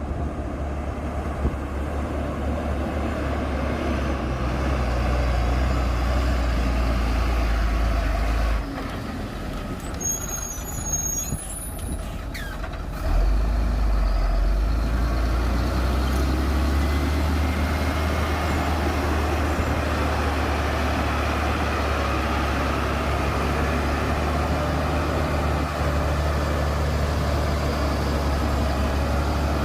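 Heavy diesel earthmoving machinery running at a steady, loud working rumble. The engine eases off for a few seconds about a third of the way through, with a short run of high beeps, then comes back up strongly.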